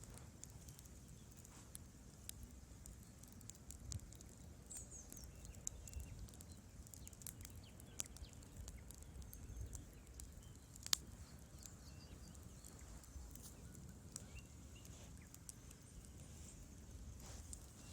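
Wood fire crackling in a fireplace: irregular small pops and ticks over a low rumble of the flames, with one sharper snap about eleven seconds in.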